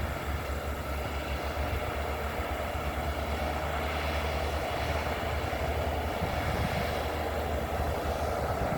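Bulldozer's diesel engine running steadily, a low hum that gets slightly louder about halfway through.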